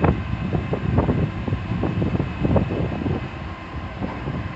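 Rumble of an electric passenger train at the platform, with irregular knocks. Wind buffets the phone's microphone throughout.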